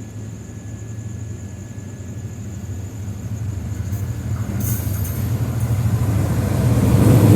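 Diesel passenger train approaching: a low engine rumble that grows steadily louder, with rail and wheel noise filling in over the second half.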